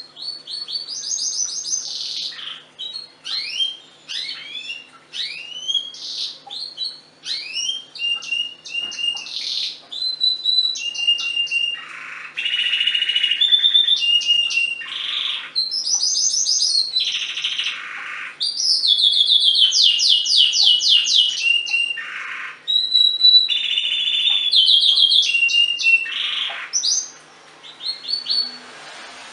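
Domestic canary singing a long, varied song of rapid trills and repeated chirping notes with short pauses, stopping a couple of seconds before the end.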